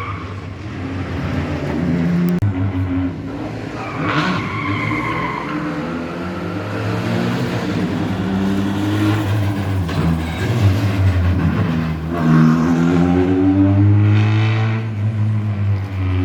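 Rally car engine revving hard, its pitch rising and falling as the car is thrown sideways in a drift, with the tyres squealing briefly about four seconds in.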